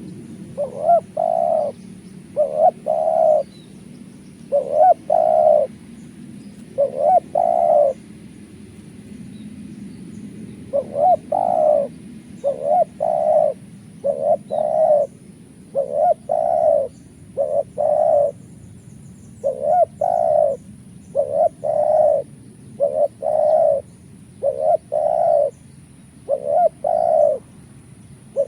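Spotted dove (tekukur) cooing in short repeated phrases. Four phrases come about two seconds apart, then after a pause of about three seconds they run on at about one a second.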